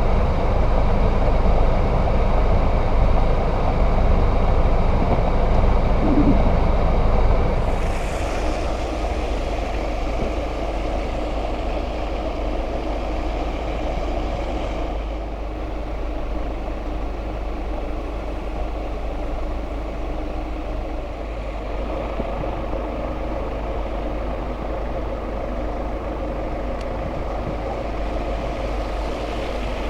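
Steady motor-vehicle engine and road noise with a heavy low rumble, easing slightly about eight seconds in. Two short tonal blips sound, one right at the start and one about six seconds in.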